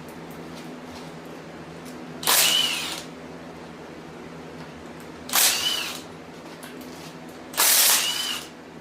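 Handheld power tool, drill-like, run in three short bursts, its motor whine rising and falling each time.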